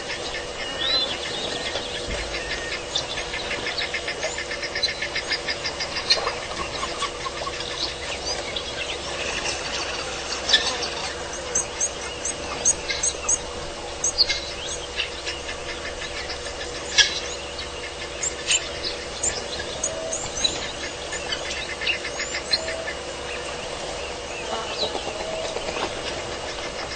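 Wild birds chirping and trilling: many short high chirps scattered throughout, with a fast, rapidly pulsed trill in the first several seconds, over a steady faint hum.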